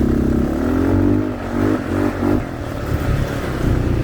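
ATV (quad bike) engine running, its pitch rising and falling a few times in quick succession in the first half as the throttle is worked, then settling back to a steady hum.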